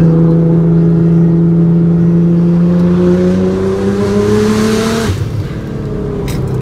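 Nissan GT-R R35's twin-turbo V6 heard from inside the cabin, pulling under acceleration with its note rising steadily and a rushing hiss building. About five seconds in, the note drops suddenly and settles lower. A brief click comes near the end. The engine is running in limp mode, held to about 10 psi of boost.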